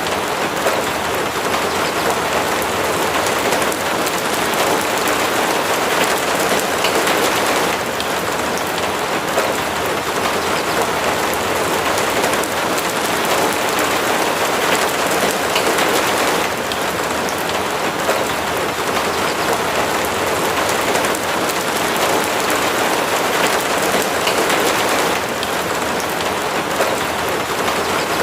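Steady rain falling and pattering on a surface, an even hiss of drops that swells and eases slightly every several seconds.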